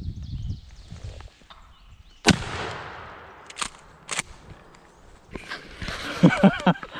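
A single shotgun blast about two seconds in, its echo dying away over a couple of seconds, followed by two sharp clicks. Near the end comes a cluster of loud, short sounds.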